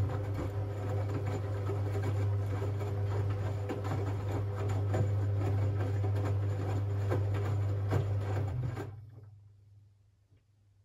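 Siemens Siwamat 6143 washing machine running during a boil wash: a steady mechanical hum with irregular clicks and knocks that stops about nine seconds in and fades away.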